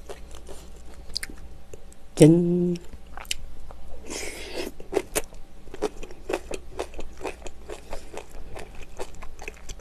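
Close-miked eating: wet chewing and crunching with many small mouth clicks and smacks. A short hummed "mm" comes about two seconds in, and a brief breathy slurp just after four seconds.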